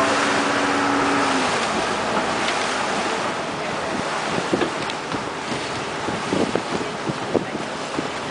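Towing motorboat's engine drone fading out about a second and a half in. It gives way to wind rushing and buffeting over the microphone, with gusty thumps in the second half.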